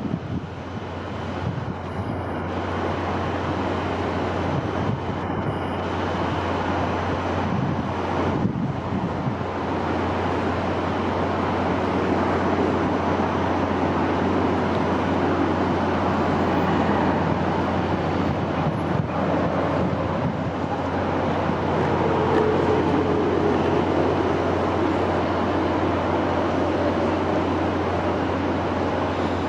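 Wind blowing steadily: a continuous rushing noise with a constant low rumble underneath, swelling slightly over the first several seconds.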